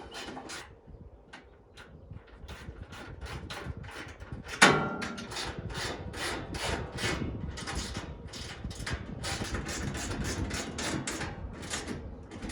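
Hand ratchet wrench clicking rapidly as bolts are tightened down, about six clicks a second, after a single sharp metallic knock with a brief ring a little before halfway.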